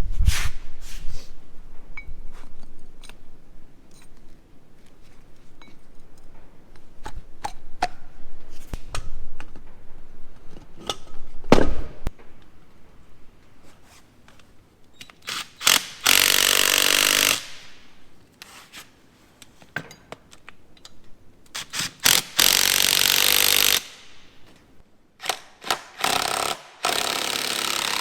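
Scattered clinks and knocks of tools on metal parts, then an impact wrench running in two loud bursts of about a second and a half each, with more short bursts near the end.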